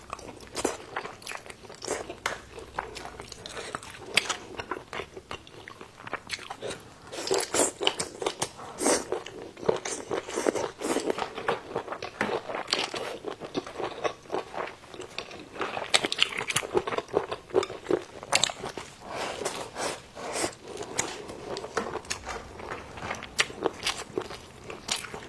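A person chewing and biting food close to the microphone, with wet chewing and crunching throughout. It gets louder in two stretches, about a third of the way in and again past the middle.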